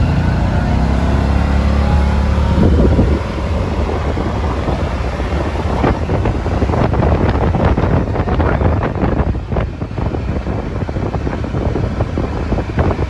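Yamaha Wolverine side-by-side driving, with wind buffeting the microphone. Its low engine hum eases off about three seconds in, then a stretch of clicks and rattles follows.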